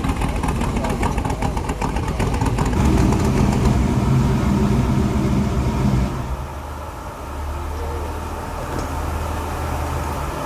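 Car engine running. About six seconds in it drops away to a quieter, lower steady hum.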